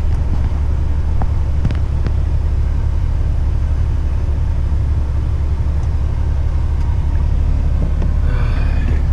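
Heavy rigid truck driving, heard from the cab: a steady low engine and road rumble, with a few light clicks a second or two in and a short rising pitched sound near the end.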